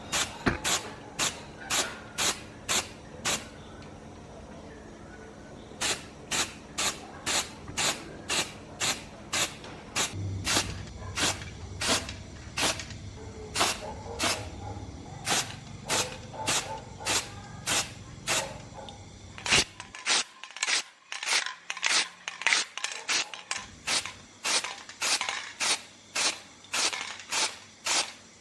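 Short hissing strokes repeating about twice a second, with a break a few seconds in.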